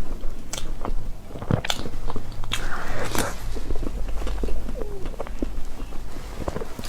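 Close-miked eating sounds: a person biting and chewing cake, with irregular wet clicks and small crunches.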